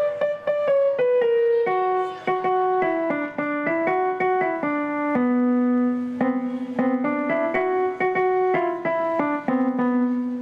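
Electronic keyboard playing a single-note melody with a piano-like tone, the notes stepping down and back up and ending on a held low note.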